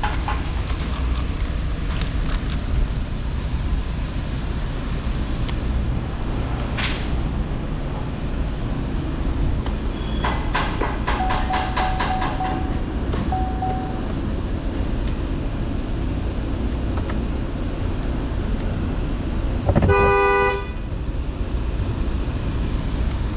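Steady low outdoor rumble, broken about twenty seconds in by one short vehicle horn toot, the loudest sound, with a few faint clicks and two faint steady beeps earlier on.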